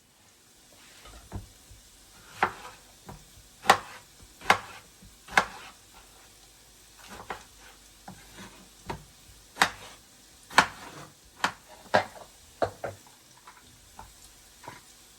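Cooking utensils knocking and clinking against cookware: a run of sharp, irregularly spaced taps, some loud, as food is stirred or cut.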